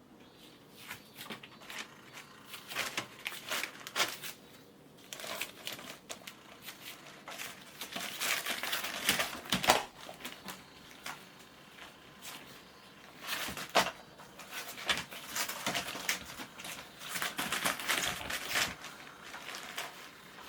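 Kittens playing in or with a crinkly toy or material: irregular bursts of crinkling and rustling mixed with scattered taps and clicks, heaviest twice, about halfway through and again near the end.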